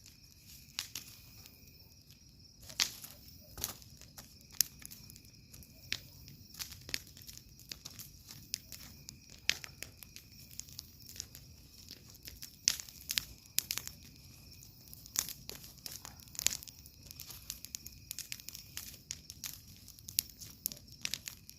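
Wood campfire crackling, with irregular sharp pops several times a second over a low steady background.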